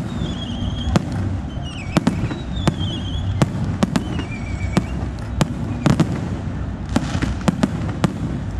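Aerial fireworks going off: an irregular string of sharp bangs over a continuous low rumble, with several wavering whistles in the first half.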